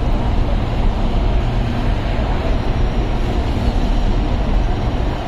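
Chennai MRTS electric suburban train running, a steady rumble of wheels on track.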